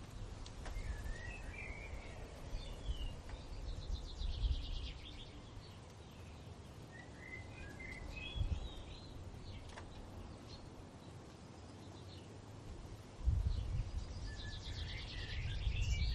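A songbird singing repeated phrases: a short twittering warble followed by a fast trill, heard about three times. Gusts of wind rumble on the microphone, loudest near the end.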